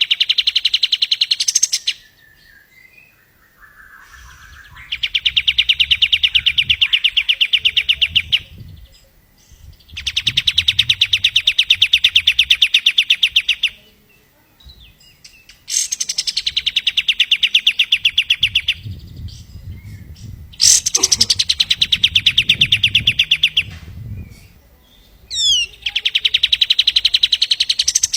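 Pied triller (kapas tembak) singing its song over and over: a fast, rattling trill of rapid repeated notes lasting about three to four seconds, given six times with short pauses between.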